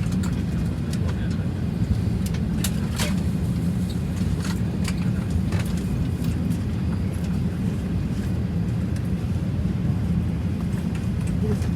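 Steady low hum of a parked Airbus A320neo's cabin air supply, with scattered light clicks and knocks.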